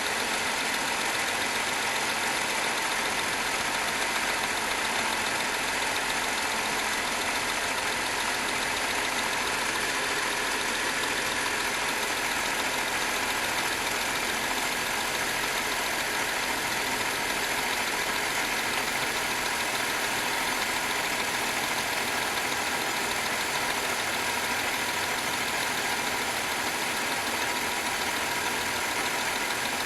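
BMW car engine idling steadily, a constant even noise with no change in speed.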